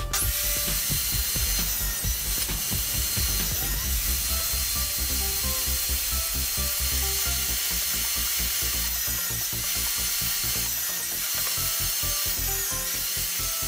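Table saw running, its circular blade set through a wooden tabletop and ripping wooden boards. It makes a steady high whine that dips briefly several times.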